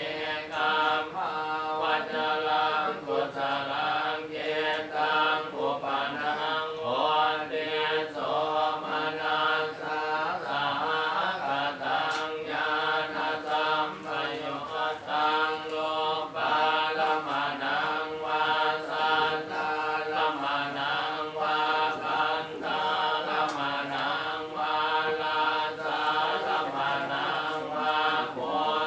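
Group of voices chanting a Buddhist chant in unison, a steady, continuous drone on held pitches.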